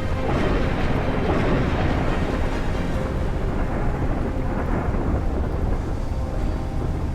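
A loud rumbling roar from a warship's weapon firing, swelling at once and fading slowly over several seconds, with faint music underneath.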